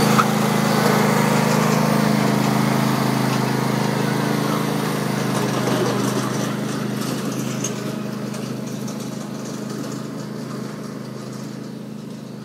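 Tractor engine running steadily, gradually growing fainter.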